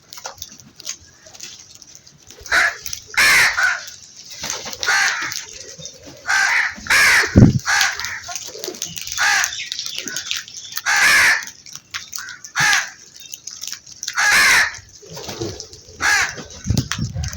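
Crows cawing: a dozen or so harsh, hoarse caws, singly and in pairs, at irregular intervals. A dull low thump sounds about seven seconds in.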